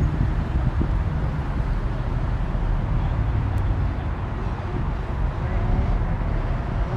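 Car engine and exhaust running with a steady low rumble, without revving.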